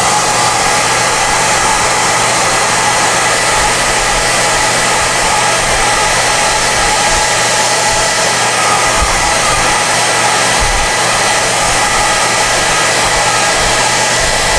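SOUNATE high-airflow hair dryer (XM-H008/YX-HM008-G) running steadily: a loud, even rush of air with a faint steady whine from its motor.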